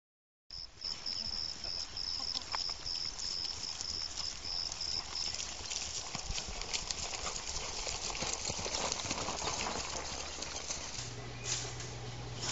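Horse hooves clip-clopping under a rider, many small hoof strikes in a running patter. A high pulsing tone sounds over the first five seconds.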